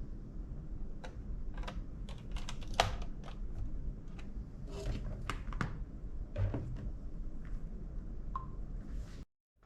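Irregular sharp clicks and taps of hard plastic as laptop parts are handled and worked on, over a low steady hum. The sound cuts off abruptly near the end.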